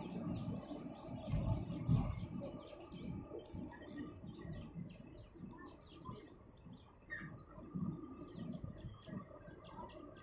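Small birds chirping in quick, repeated high notes, over a low, uneven rumble that is loudest in the first two seconds.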